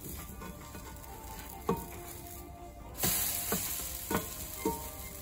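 Chickpea-flour omelette frying in oil in a cast iron skillet, sizzling. About three seconds in, the sizzle jumps louder as the omelette is flipped onto its other side, and a few short taps and scrapes of a spatula against the pan come through.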